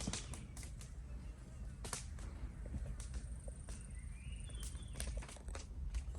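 Wood bonfire crackling, with irregular sharp pops and snaps over a low rumble, and a short rising chirp about four seconds in.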